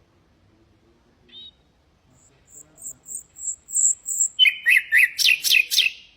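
Common nightingale singing: a faint short note about a second in, then a run of about six high, evenly spaced notes, then a loud, fast phrase of lower sweeping notes that stops just before the end.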